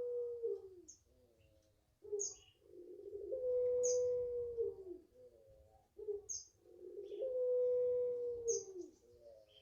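Puter pelung dove cooing its long contest call. Three long coos come about four seconds apart, each with a rough start that settles into a held steady note and then falls away. Short high chirps from another bird come between them.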